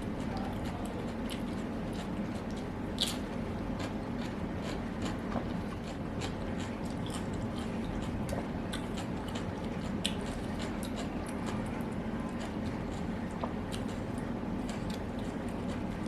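Close-up chewing and biting of food, with many small wet mouth clicks and one sharper click about three seconds in, over a steady low background hum.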